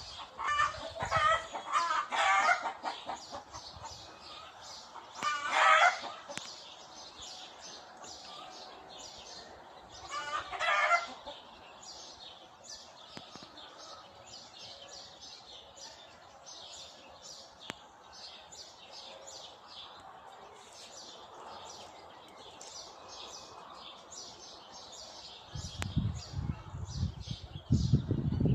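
Chickens clucking and calling in four loud bouts in the first eleven seconds, with small birds chirping steadily throughout.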